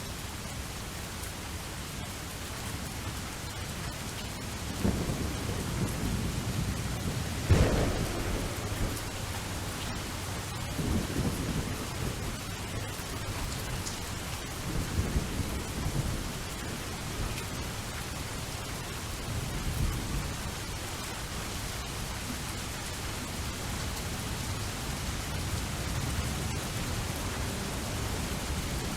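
Steady rain, with thunder rumbling several times, the loudest crack about seven seconds in.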